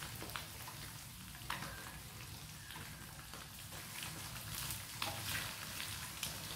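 Boiled quail eggs frying in a pan of hot oil: a steady sizzle with scattered crackles and pops.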